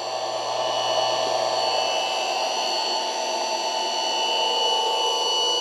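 Pump-fed propane tankless water heater setup running at max heat and max water flow: a steady rushing noise with several constant high whines.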